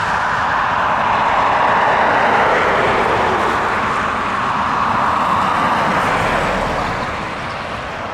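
Airliner passing close by, a loud steady rush of engine noise that swells and ebbs and then fades near the end.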